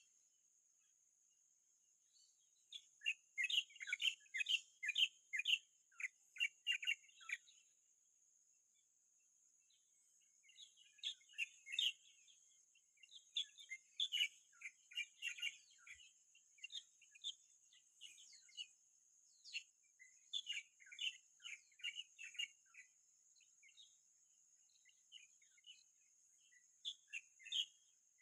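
Birds calling in bouts of short, quickly repeated chirps, over a steady high-pitched hiss.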